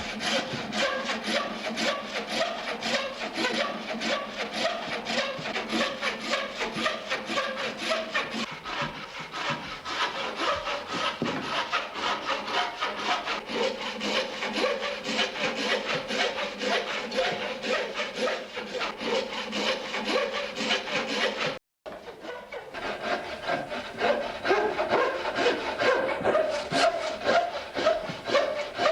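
Narrow-blade frame saw cutting by hand through a seasoned wooden saddle-frame blank in steady back-and-forth strokes. The sawing breaks off for an instant about three-quarters of the way through and resumes a little louder.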